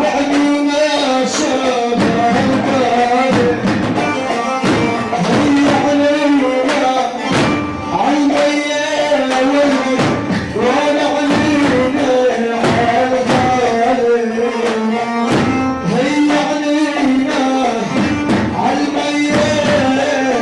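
Live band music: a melodic instrument holding and bending pitched notes over a regular drum beat, with singing at times.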